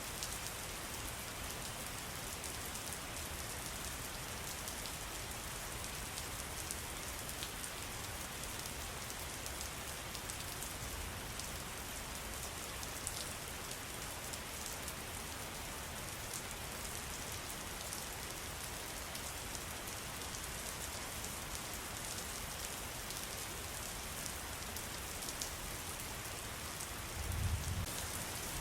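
Steady hiss of falling, splashing water, flecked with fine dripping ticks. A low rumble starts near the end.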